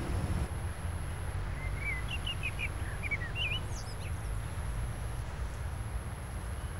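Songbirds chirping, a quick run of short chirps about two to three and a half seconds in, over a steady low outdoor rumble and a faint constant high whine.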